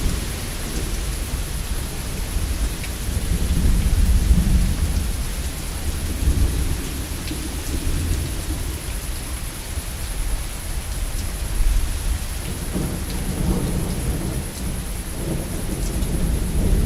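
Steady rain falling, with thunder rumbling low and continuously, swelling a few seconds in and again near the end; a few scattered drip ticks.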